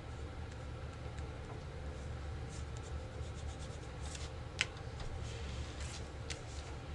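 Playing cards being laid down and slid across a table during play: soft scattered rustles and taps, with one sharper snap about four and a half seconds in, over a steady low hum.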